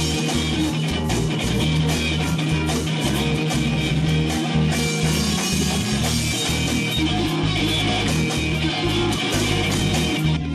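Rock music with electric guitar and a steady pulsing bass, instrumental with no singing.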